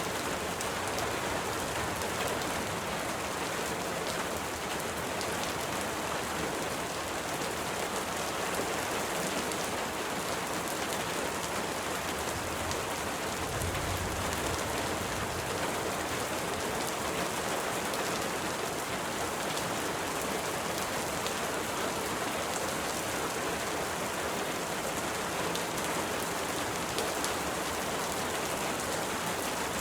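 Steady rain falling, a dense even patter of drops, with a brief low rumble about halfway through.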